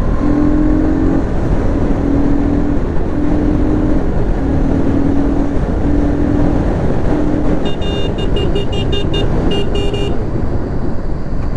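Bajaj Pulsar NS200's single-cylinder engine running under way, heard through heavy wind noise on the rider's microphone. A low steady tone sounds in six short blasts through the first seven seconds. Rapid high-pitched chirps follow for about two seconds near the end.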